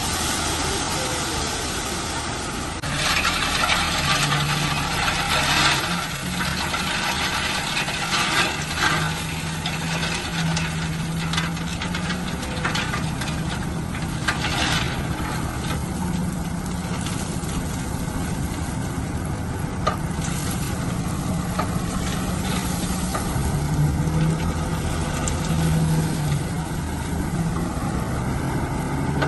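Heavy construction machine's engine running steadily, its pitch stepping up and down a little, with louder stretches of rough, noisy working sound in the first half.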